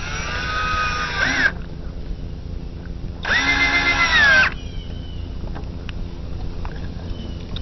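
Power drill driving screws into boat side panels: two runs of motor whine about a second long, a couple of seconds apart, each bending in pitch at the end as the screw draws tight.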